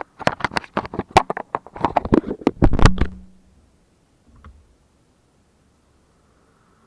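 A rapid, irregular run of sharp knocks or clicks for about three seconds, then one faint click.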